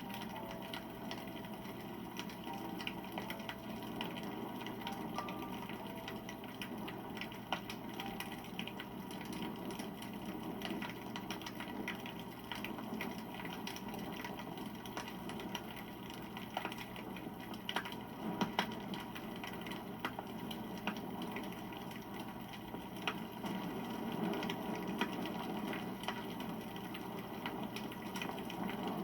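Wood campfire burning, with a steady hiss and constant small crackles, and a few louder snaps of the burning wood.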